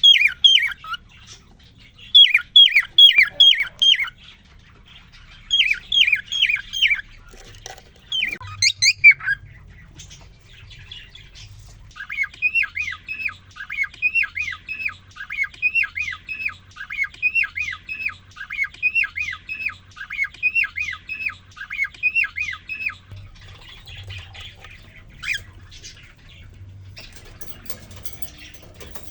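Male cockatiel singing to a female: short bursts of repeated downward-sliding whistles, then a long run of about twenty quick repeated whistled notes, about two a second, before the song fades.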